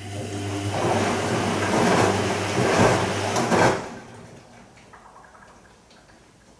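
Bosch Serie 2 VarioPerfect washing machine's drain pump running with a steady hum while water rushes and gurgles through it, the gurgling growing louder until the pump cuts off suddenly just before four seconds in, followed by faint ticks.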